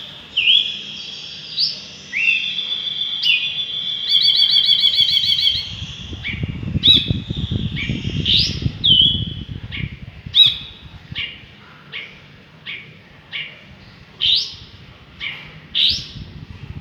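A bulbul calling: clear whistled notes that sweep up and down, a quick trill about four seconds in, then a string of short rising notes repeated under a second apart. A low rumble sits underneath for a few seconds in the middle.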